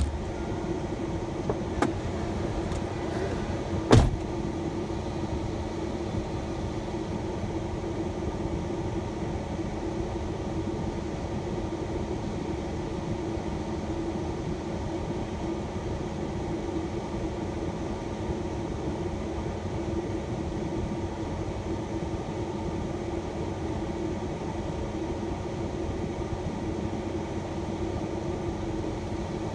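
Steady rumble of a shuttle van's engine and road noise heard from inside the cabin, with a single sharp knock about four seconds in.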